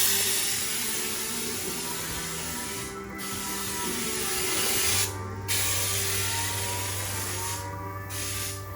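Air-powered spray gun spraying bed liner: a loud, steady hiss that starts suddenly and stops briefly a few times as the trigger is let go, with background music underneath.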